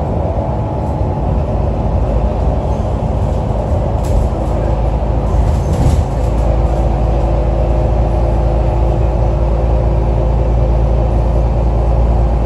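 Alexander Dennis Enviro 500 double-decker bus engine running with a steady low drone. A steady tone joins in about four and a half seconds in, and a few brief sharper noises come between four and six seconds in. The uploader calls the bus's engine sound weird.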